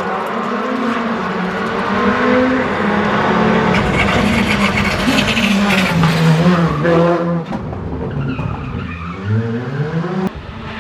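Skoda Fabia R5 rally car's turbocharged 1.6-litre four-cylinder engine driven hard, its pitch rising and dropping again and again through gear changes, with tyre noise on the surface. A sharp crack comes near the end.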